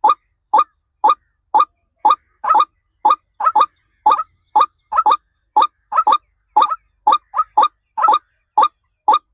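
A bird calling over and over: short, sharp calls about twice a second, at a steady, even pace, some given as quick doubles.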